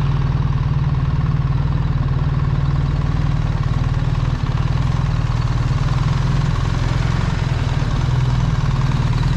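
BMW R1300 GS motorcycle's 1.3-litre boxer-twin engine running steadily, with no revving or change in pace.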